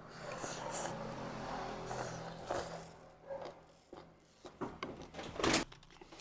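Eating sounds from a bowl of bún riêu noodle soup: chewing and slurping with scattered short clicks, the loudest a sharp noisy sound about five and a half seconds in. A low steady hum fades out about two and a half seconds in.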